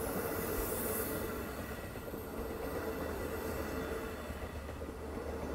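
Long Island Rail Road bilevel passenger coaches rolling past: a steady rumble and rush of wheels on rail with a thin, steady whine, easing slightly as the train goes by.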